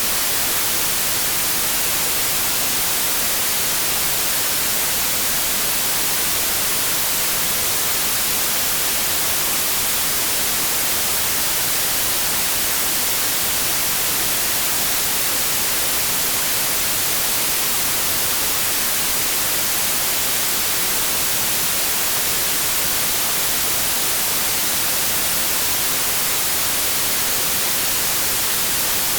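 Steady white noise: an even, unchanging hiss across all pitches, with no other sound.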